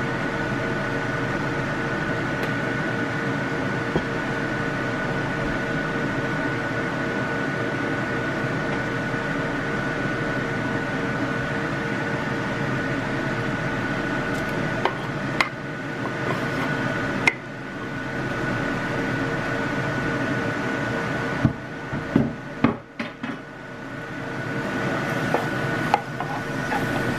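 Chicken strips sizzling in hot olive oil in a skillet over a steady hum. In the second half come scattered clinks and scrapes of a utensil against the pan.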